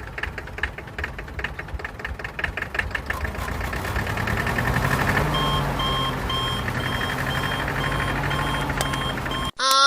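Small motor of a DIY mini tractor running with a fast, even clatter that grows louder over the first few seconds. From about halfway through, a beeper sounds roughly every half second.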